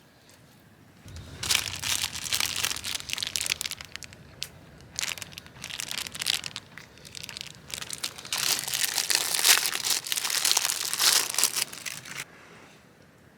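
Plastic packaging or a bag being crinkled and crumpled by hand, in three rustling bouts with short pauses between.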